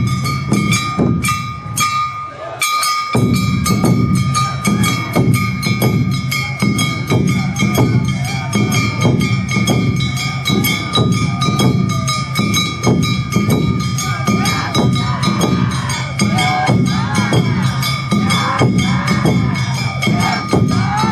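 Awa Odori narimono band playing its brisk two-beat dance music: drums and a clanging kane gong striking about twice a second under steady flute tones. The music thins out briefly about two seconds in, then carries on.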